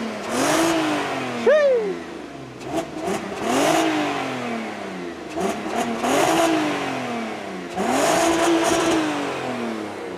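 3.2-litre V6 car engine revved repeatedly from idle: a series of quick blips, each rising and falling in pitch, the last held a little longer near the end.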